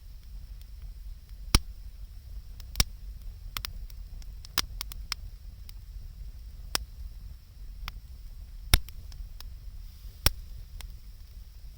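Wood campfire crackling, with about a dozen sharp pops at irregular intervals over a low steady rumble; the loudest pops come about a second and a half in and near nine seconds.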